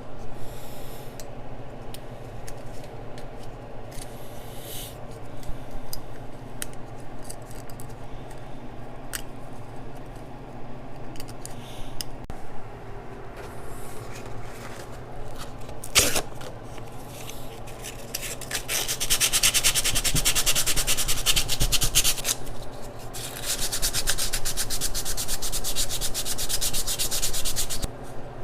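Old gasket material being scraped and rubbed off a metal part, likely with a razor blade. Scattered light scrapes and a sharp click come first, then two long spells of rapid back-and-forth scraping in the second half.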